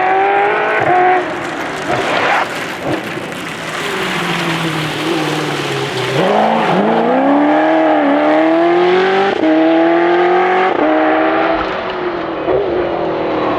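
1988 Giocattolo Group B's V8 engine revving hard under racing load, its pitch climbing and dropping several times as it shifts and brakes. About six seconds in it falls low, then pulls back up in a long rise.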